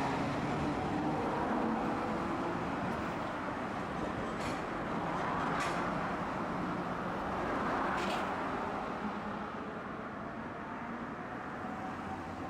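Tosaden streetcar running: a steady rumble with three sharp clicks in the middle, the sound slowly dropping off near the end.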